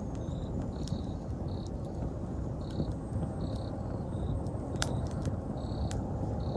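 Wood campfire crackling, with scattered sharp pops, the loudest about five and six seconds in, over a steady low rumble. Autumn insects are chirping in short, repeated chirps throughout.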